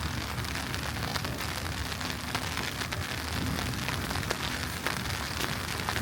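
Snowy city street ambience: a steady wet hiss with scattered small ticks over a low rumble.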